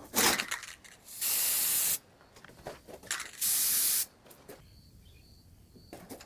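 A few knocks and clicks, then two short, steady bursts of pressurised spray hissing, the first just under a second long, the second a little shorter.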